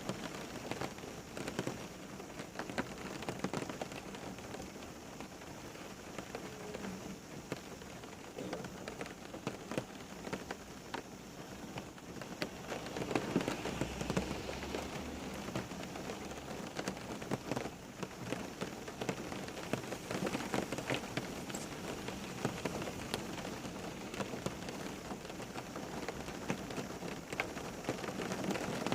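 Steady rain falling on a surface, with many separate drops pattering, growing a little heavier for a few seconds about halfway through with a brief low rumble.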